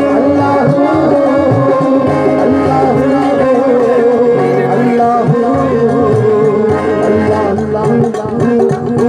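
Gilgit-Baltistan folk song: a voice singing a wavering melody over a steady hand-drum beat.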